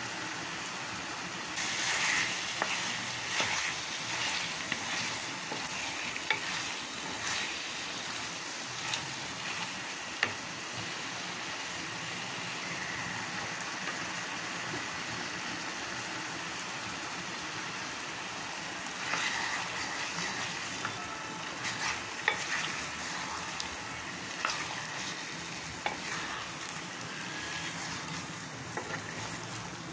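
Chicken masala curry sizzling steadily in a metal pan, with a wooden spoon stirring and knocking against the pan in several short spells.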